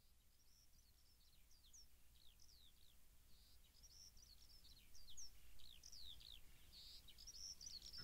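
Faint birdsong: many quick, high chirps falling in pitch, one after another and overlapping, a little louder from about halfway through.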